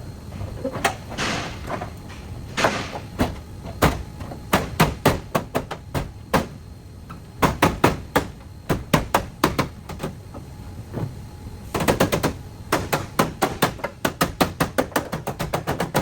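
Hammer blows on car body metal: sharp knocks in quick runs of several a second, with two short hissing sounds about one and three seconds in.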